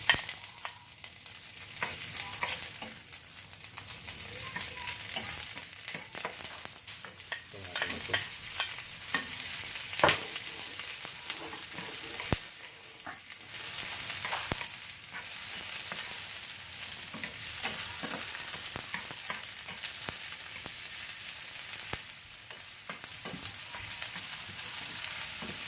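Chopped onion and garlic sizzling in hot oil in a pan, stirred with a spatula that scrapes and clicks against the pan now and then.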